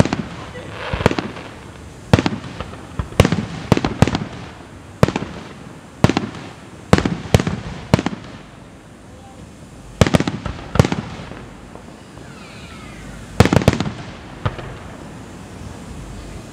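Aerial fireworks shells bursting in a finale barrage: a string of sharp bangs, about one to two a second, coming in quick clusters with short lulls between them.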